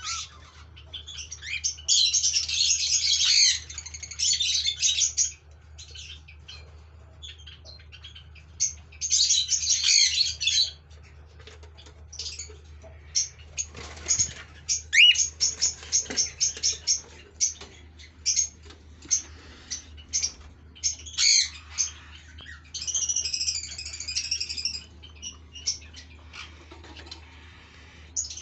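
Cockatiels calling: harsh squawks in several bursts a second or two long, with runs of short chirps and one quick rising whistle in the middle.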